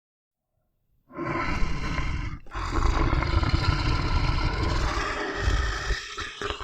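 A large wild animal roaring, a long rough call that starts suddenly about a second in, breaks off briefly and goes on.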